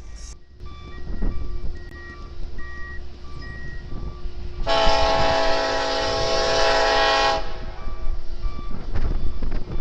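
A locomotive's multi-chime air horn sounds one long blast of about three seconds over the rumble of a passing train. Before the horn, a steady dinging repeats about every two-thirds of a second.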